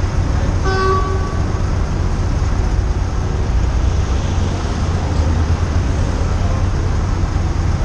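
Motorcycle engine idling in stopped city traffic, a steady low rumble with traffic noise around it. A brief pitched tone sounds about a second in.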